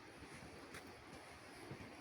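Near silence: faint outdoor background hiss with a soft tick or two.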